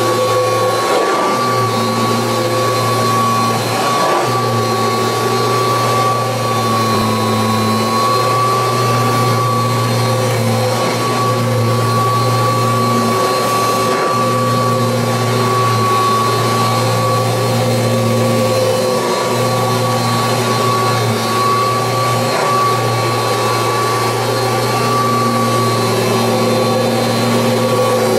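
1986 Kirby Heritage 2 upright vacuum cleaner running on carpet: a steady high whine over a low hum, the hum shifting a little every few seconds.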